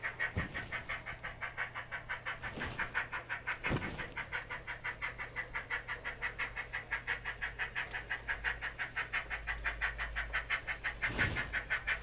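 Sound decoder of a Graham Farish N gauge SECR N class model steam locomotive playing exhaust chuffs in a fast, even rhythm through its small onboard speaker. A few short, louder hisses break in.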